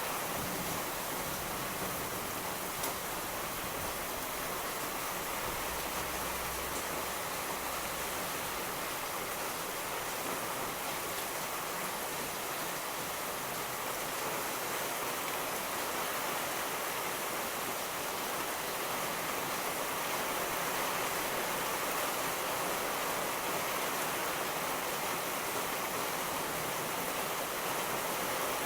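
Steady, heavy rain falling as an even hiss, with a low rumble of distant thunder in roughly the first eight seconds.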